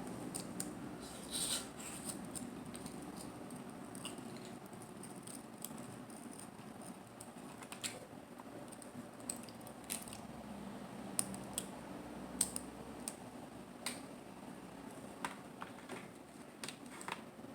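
Close-miked eating of mussels and clams: soft, wet chewing with scattered sharp clicks, about one every second or two.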